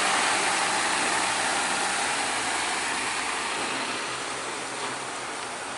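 Heavy truck running, its engine and rushing road noise fading gradually over the last few seconds as it draws away.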